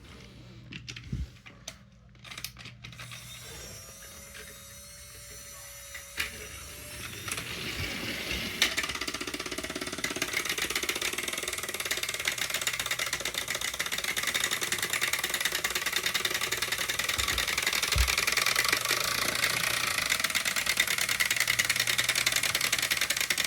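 Motorized toy train engines running, their small electric motors and plastic gears whirring with a fast, even clicking. A few light knocks come first; the motor noise builds about seven seconds in and then holds steady.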